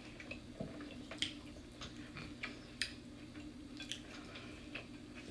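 Quiet chewing with scattered small, sharp mouth clicks and smacks from people eating fried chicken, over a faint steady hum.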